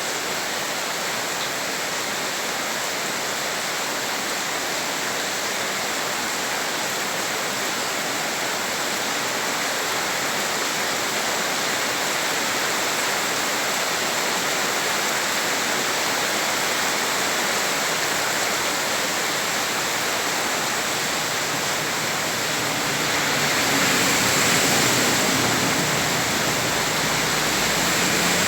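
Heavy rain pouring onto a flooded street, a dense steady hiss that swells louder for a few seconds near the end, with a deeper rumble coming in.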